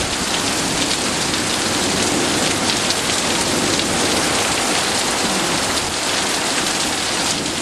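Heavy rain pouring steadily, loud and even, driven by strong, shifting storm winds.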